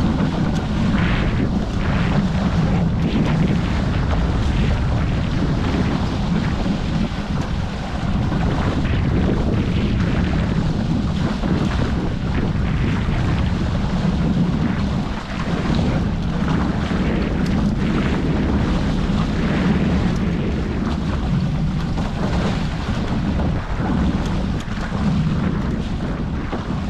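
Steady wind buffeting the microphone, with water rushing along the hulls of a Hobie 14 catamaran under sail.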